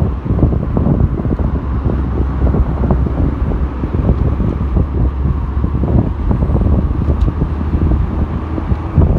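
Strong wind buffeting the microphone: a loud, gusty low rumble that surges and eases without a break.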